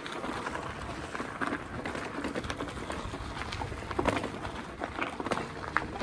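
E-bike rolling slowly over a rough alley surface: tyres crunching over loose debris, with scattered clicks and rattles, a few louder knocks near the end.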